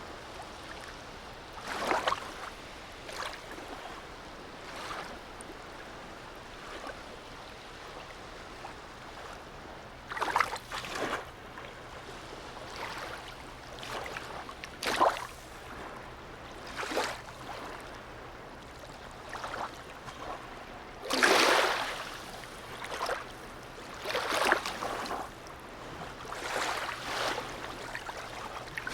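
Small waves lapping and splashing against the harbour edge in irregular splashes a second or more apart, the largest about twenty-one seconds in, over a faint steady low hum.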